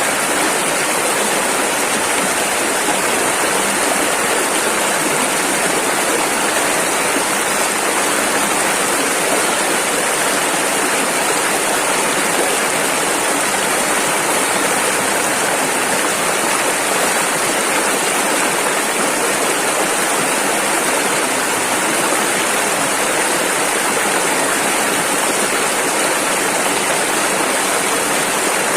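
Rushing river water running steadily, a dense even rush of noise without breaks.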